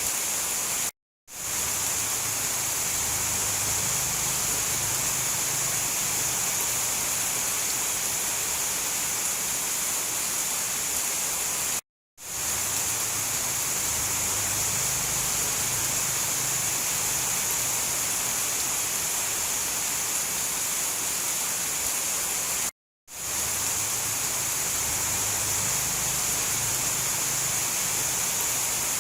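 Steady hiss of heavy rain, brightest in its upper range. The sound cuts out to silence for a split second three times, about eleven seconds apart, and quickly fades back in each time: the seams of a looped recording.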